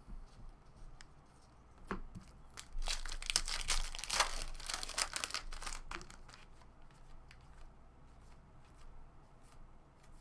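Foil wrapper of a baseball card pack torn open and crinkled, a dense crackling rustle lasting about three seconds in the middle, with a few faint clicks of card handling around it.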